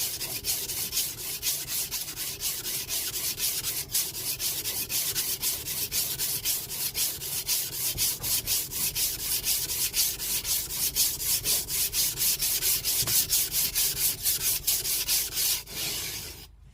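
Steel knife blade scraping back and forth on a whetstone in quick, even push-and-pull strokes: the flat back side of a serrated knife being sharpened. The strokes stop shortly before the end.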